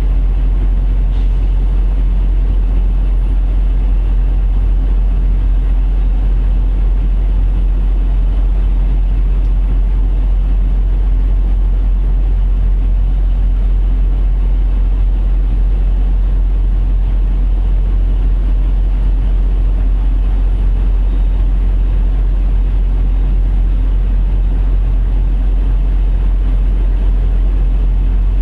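Diesel semi-truck engine idling steadily: a constant low hum that does not change.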